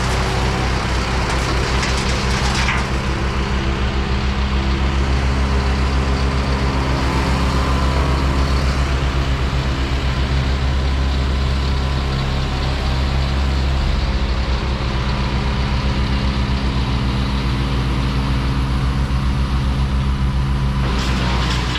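A heavy diesel engine running steadily with a deep, fast-pulsing throb, as from a truck or heavy machine working on the job.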